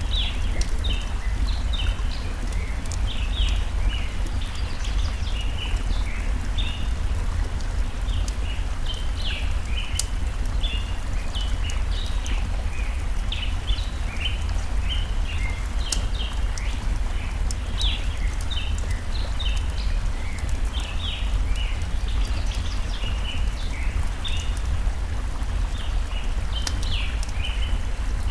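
Layered forest ambience: many small birds chirping busily in short, rapid notes over a steady low rush of flowing stream water, with scattered sharp crackles and pops from a burning wood fire.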